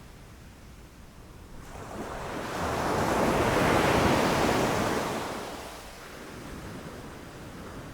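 Ocean surf: a wave breaks and washes in, swelling to a peak about four seconds in and fading away, over a steady low rumble of the sea.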